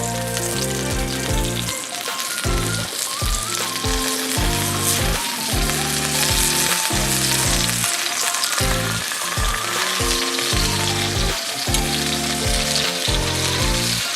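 Food sizzling steadily as it fries, under background music with a rhythmic bass line and a stepping melody.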